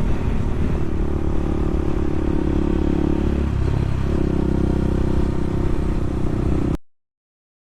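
Bashan 250 dirt bike engine running steadily while riding, its pitch dipping and coming back up briefly about halfway through. The sound cuts off suddenly just before the end.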